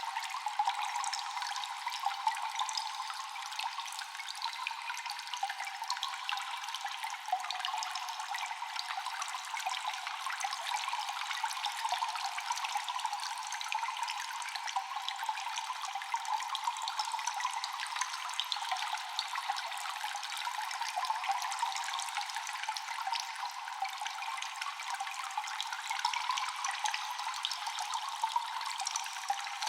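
Water dripping and trickling in a cave, many drops echoing in quick, irregular succession over a steady watery hiss, with no deep low end.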